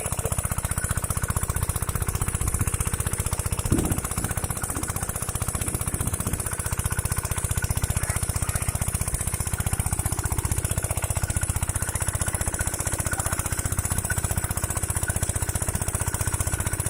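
Diesel engine of a water pump running steadily, its firing strokes making a fast, even knocking beat. There is a brief louder thud about four seconds in.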